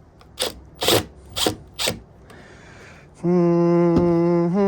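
Four short rasping, ratchet-like strokes about half a second apart as a part is fitted back onto an electric heater. A little past halfway, a man's voice starts holding a long sung note.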